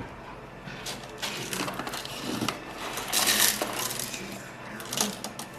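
Whole coffee beans poured into an espresso machine's bean hopper, rattling and clattering in a scatter of small clicks, with a denser pour about three seconds in.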